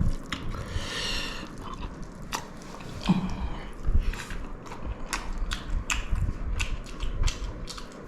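A person chewing a mouthful of pulao rice mixed with chicken kosha gravy close to the microphone, with many small wet mouth clicks and smacks.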